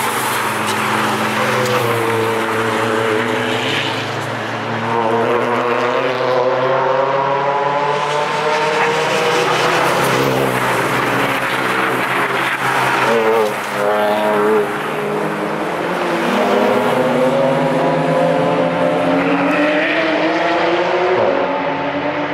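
Cars on a race track accelerating hard, their engine notes climbing in pitch again and again through the gears, several engines overlapping, over steady tyre and wind noise.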